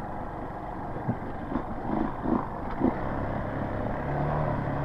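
Dirt bike engine running as the bike is ridden up a small sandy hill on a trail, with a few short knocks between about one and three seconds in. The engine note steadies and gets a little louder near the end.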